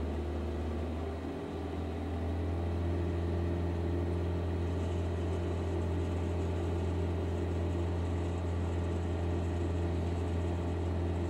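Car engine running steadily at a raised speed above idle, heard from inside the cabin, to heat up the catalytic converter and oxygen sensor. The engine note steps up slightly about a second and a half in, then holds.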